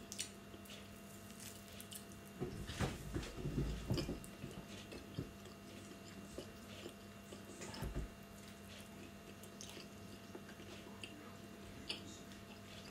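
A person faintly chewing and biting food eaten by hand, with scattered soft clicks and mouth smacks; a cluster of louder ones comes about three seconds in and another around eight seconds.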